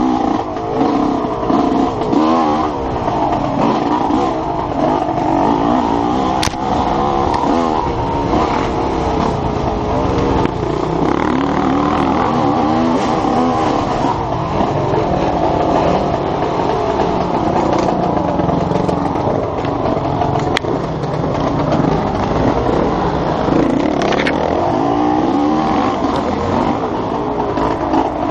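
Enduro motorcycle engine revving up and down continuously as the bike is ridden hard over a dirt trail, heard from the rider's helmet camera. A few sharp knocks stand out, about six seconds in and twice more past twenty seconds.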